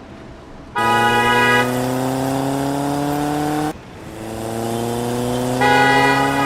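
Car engine accelerating twice, its pitch rising steadily for about three seconds each time.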